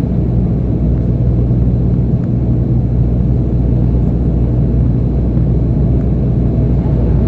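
Airliner cabin noise during the approach: the engines and airflow make a steady low rumble with a constant drone underneath.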